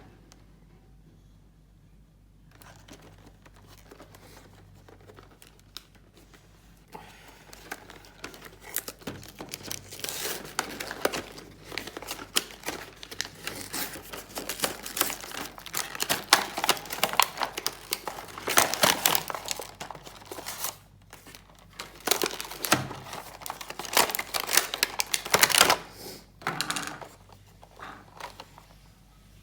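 Toy packaging being opened by hand: crinkling and tearing of the wrapping. It starts about a quarter of the way in, comes in dense irregular spells with a short pause around two-thirds through, and dies away shortly before the end.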